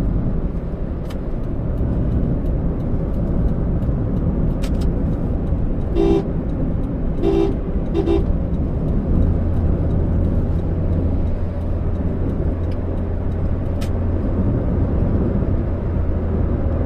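Road and engine noise inside a moving Toyota Allion, with a car horn honked three short times about six to eight seconds in. A steady low engine drone comes in after the honks.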